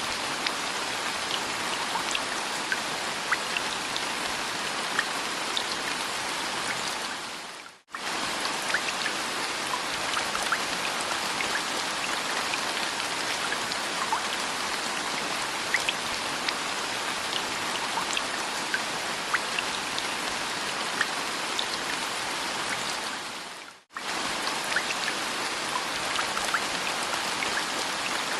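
Steady rain with scattered individual drops ticking. It briefly fades out and cuts back in twice, about eight seconds in and again about sixteen seconds later, like the seam of a looped rain recording.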